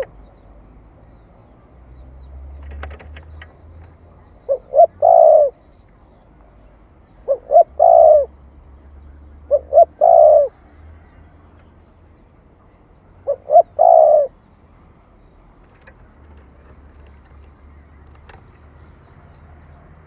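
Spotted dove cooing in the 'thổ thúc gù' call: four calls a few seconds apart, each two short notes followed by a longer falling coo.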